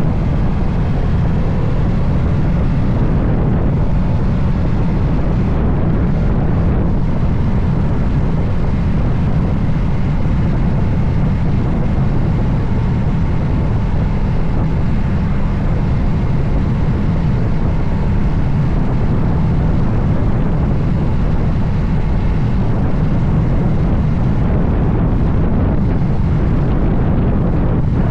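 Moto Guzzi Stelvio motorcycle riding at a steady speed: a constant rush of wind over the microphone with the transverse V-twin engine and road noise beneath, no change in pace.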